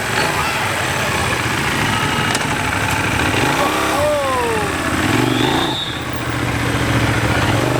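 Motorcycle engine idling, with a brief rev that rises and falls about four seconds in, over street voices.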